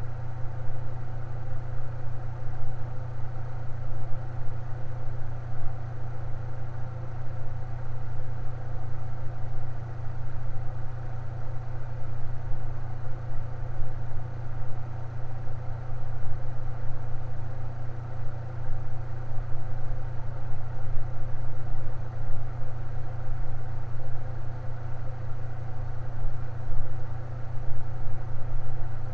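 Electric fan running steadily: a constant low motor hum with an even airy rush above it, unchanging throughout.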